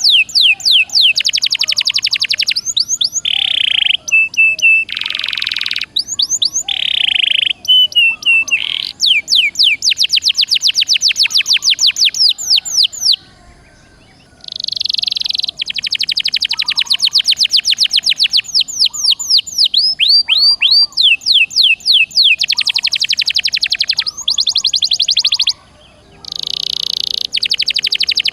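Domestic canary in full song: long runs of rapid repeated notes and trills, mixed with quick sweeping whistles, broken by a short pause about halfway through and another near the end.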